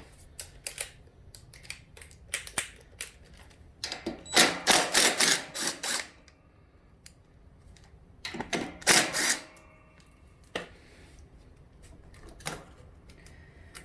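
Sharp clicks and clatter of hand tools and small metal parts being worked, coming in two busy runs of quick clicks about four and nine seconds in, with scattered single clicks between.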